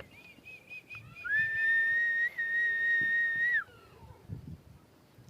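A few short chirps, then about a second in a single long, steady whistle held at one pitch for about two and a half seconds, ending sharply.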